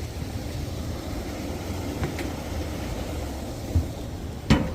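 Steady low rumble from a handheld camera carried by someone walking in snow, with two short thumps near the end.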